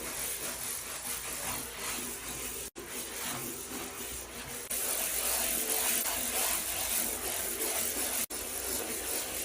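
Scrubbing and rubbing sounds of cleaning with small clicks and rattles. It briefly drops out twice and gets a little louder about halfway through.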